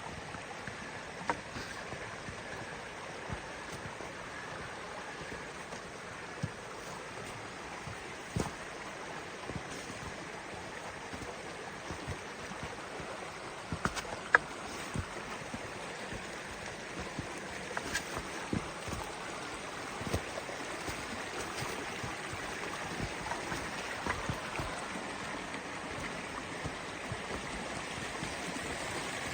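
Steady rush of a shallow flowing creek, with scattered sharp clicks and knocks, growing a little louder near the end.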